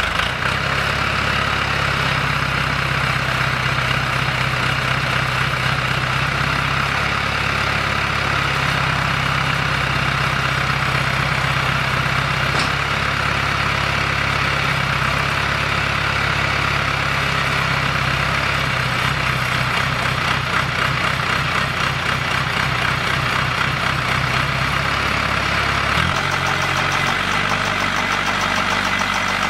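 Guardrail post-driving machine running, its engine steady, with a noisy mechanical band above it; the engine note changes abruptly near the end.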